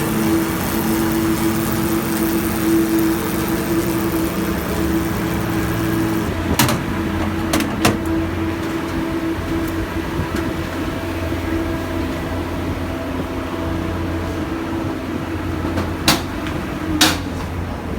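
Motorcycle engine with an aftermarket exhaust running steadily, its note changing slightly partway through, with a few sharp clicks, three near the middle and two near the end.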